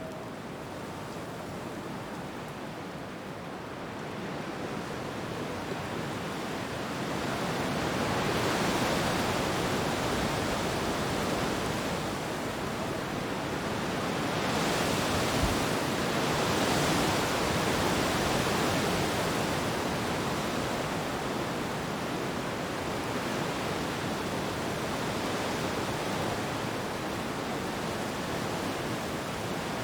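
Wind blowing through trees, an even rustling hiss of leaves that swells in gusts, strongest about a third of the way in and again around the middle.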